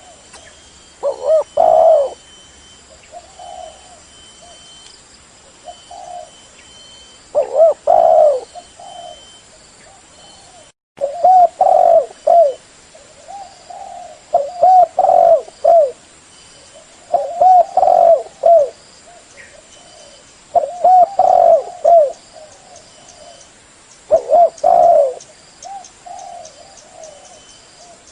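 Spotted dove cooing loudly and repeatedly: phrases of several low, rolling coos every few seconds. The sound cuts out for an instant about eleven seconds in.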